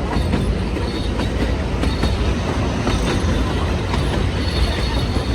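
Narrow-gauge heritage railway carriage running along the track, heard from on board: a steady rumble with wheels clacking over the rails and a faint high wheel squeal that comes and goes.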